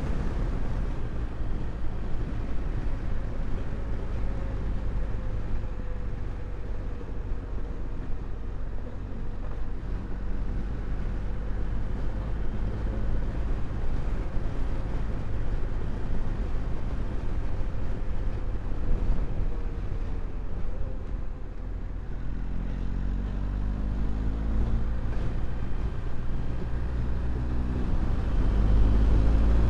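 Motorcycle engine running while riding along a road, with a heavy low rumble underneath. About two-thirds of the way through, the engine note dips briefly and then climbs steadily as the bike accelerates.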